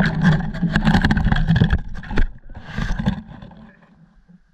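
Off-road vehicle engine running with throttle blips, then dying away about three and a half seconds in.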